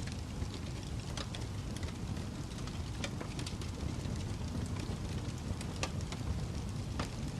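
Fireplace crackling: a steady low rumble of burning with scattered sharp pops and snaps, several a second.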